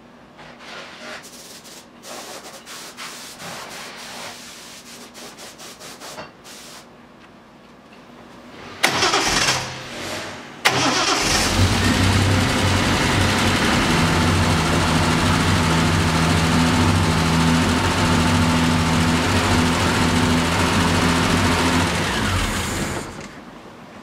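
A few light clicks and taps, then the 1973 Triumph TR6's straight-six is cranked on the starter for a couple of seconds, catches and idles steadily for about twelve seconds before it is switched off. It runs on a freshly swapped distributor whose ignition timing has not yet been set.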